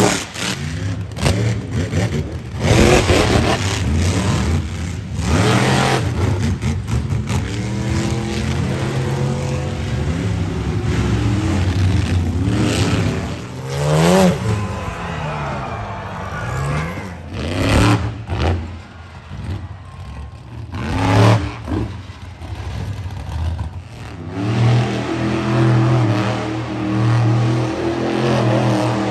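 Monster truck engines revving hard and falling back again and again, with several sudden loud bangs in between.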